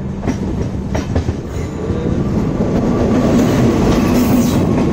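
Moving express train with LHB coaches, wheels rumbling on the track. Several sharp clicks over rail joints come in the first second or so, and the running noise grows louder toward the end.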